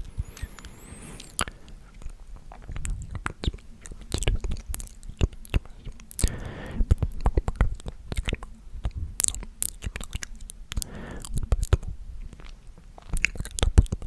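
Close-miked ASMR mouth sounds: a steady run of wet clicks and smacks, with a couple of short breathy whispers in between.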